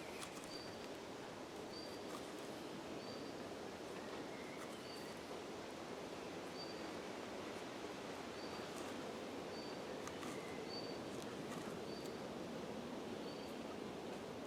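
A short, high chirp repeated about once a second, typical of a small bird calling, over a faint steady outdoor hiss.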